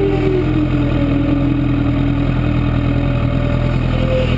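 2012 Honda CBR1000RR's inline-four engine running at low revs, its note dipping slowly and then rising again near the end.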